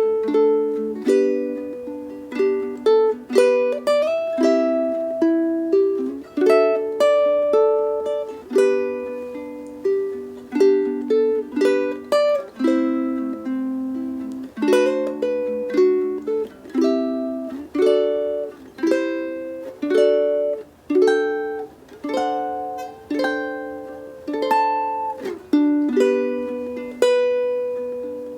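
Solo ukulele playing a fingerstyle arrangement, plucked melody notes over chords, each note ringing and fading.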